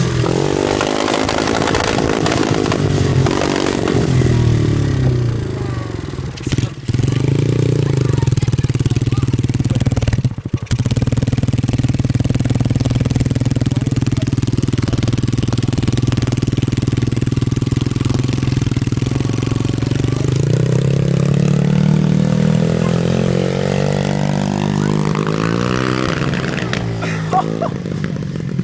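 90cc pit bike engine running, revved and dropping back in the first few seconds, holding steady through the middle, then revved up again in the last few seconds.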